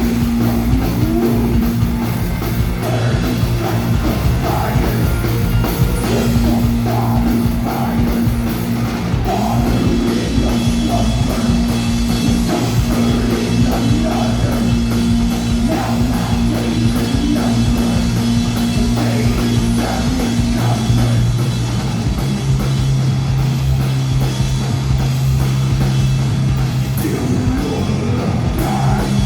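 Rock band playing live and loud: drums hit steadily under held low bass and guitar notes, with a voice singing over them. The low note steps up about two-thirds of the way through.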